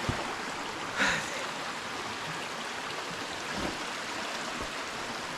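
Stream water flowing steadily over rocks, with one short, louder sound about a second in.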